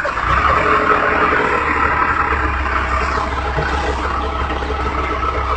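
A motor vehicle on the move: a steady low engine drone with even road and wind noise over it.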